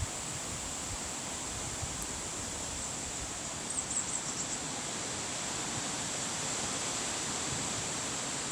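Steady outdoor background hiss with no train running. A short run of faint, high chirps comes about four seconds in.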